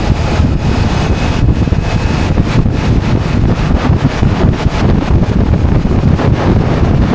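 Wind buffeting the microphone of a moving motorcycle, a loud steady rush with the motorcycle's engine and road noise mixed underneath.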